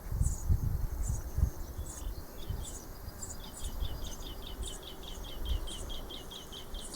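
Insects chirping in a summer garden: short high chirps repeating about twice a second, joined about two seconds in by a fast, even run of quicker chirps, about four a second. A low rumble on the microphone in the first second and a half.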